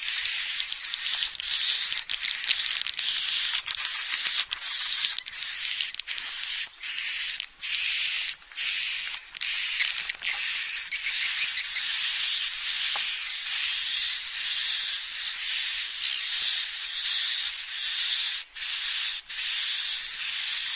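Swiftlet lure recording: a dense, continuous chorus of high-pitched edible-nest swiftlet twittering, mixing call sounds and roosting sounds that are played to draw swiftlets in to roost and nest. Brief gaps break it every second or so.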